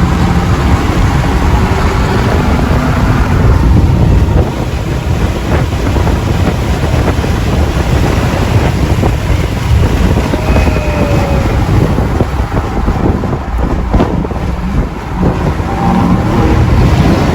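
Wind buffeting the microphone: a loud, low, rumbling noise.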